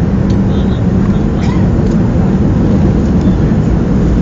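Steady cabin noise aboard a Boeing 737-300 airliner in flight: a loud, even rumble of its CFM56-3 turbofan engines and the airflow over the fuselage.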